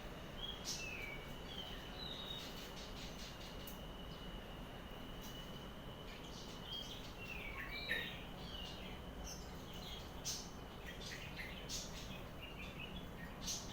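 Small birds chirping and twittering in short calls and quick pitch glides, with a thin steady high tone running through the first half and several sharp clicks among the calls.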